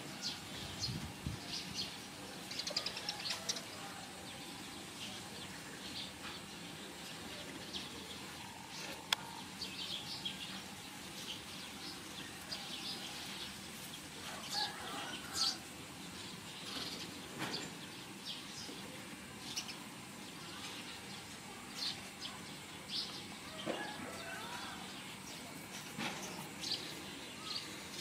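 Small birds chirping over steady outdoor background noise, with many short high chirps throughout and a few longer gliding calls about halfway through and near the end.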